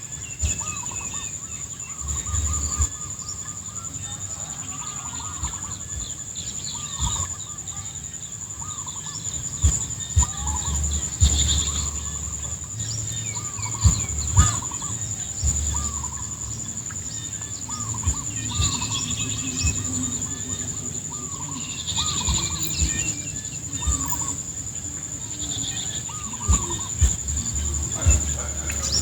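Outdoor animal chorus over rice paddies: many short, repeated calls overlapping one another, over a steady high-pitched insect drone, with low rumbles of wind on the microphone.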